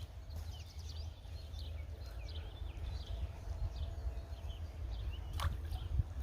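Small birds chirping with many short, high calls over a low rumble, with a sharp click a little over five seconds in.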